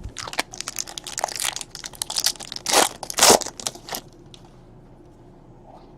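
Crinkling and tearing of a trading-card pack wrapper as a pack of 2017 Panini Elite Draft Picks football cards is opened: a quick run of crackles, loudest about three seconds in, that stops about four seconds in.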